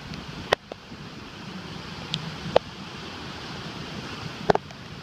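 Ocean surf washing on the beach as a steady rush, with wind on the microphone and a few sharp taps scattered through it, the strongest about halfway and near the end.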